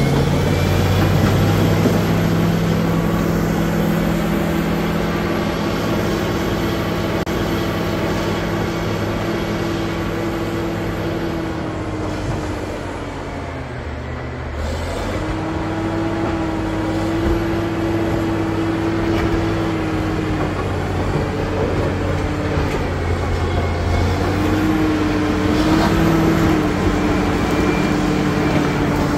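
Caterpillar D7G bulldozer's diesel engine running hard. Its pitch sinks for a couple of seconds about halfway through as the engine is pulled down, then comes back up.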